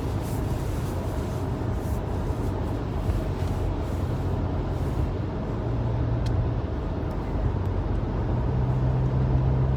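Steady car cabin noise while driving on a highway: a low engine and drivetrain hum under a constant haze of tyre and road noise.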